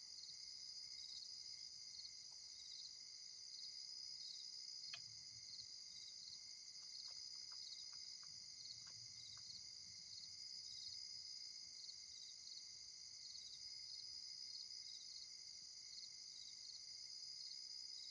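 Night insect chorus, mostly crickets: a steady high trill with a regular chirp repeating a few times a second. A few faint clicks and a faint low rumble come about halfway through.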